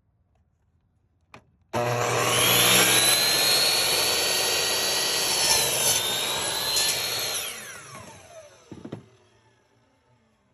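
Metabo 10-inch miter saw: a click, then the motor starts suddenly and whines at full speed while cutting through a wooden board, its pitch dipping briefly under load about two thirds of the way through. After the trigger is released the whine falls steadily in pitch as the blade winds down, with a sharp knock near the end.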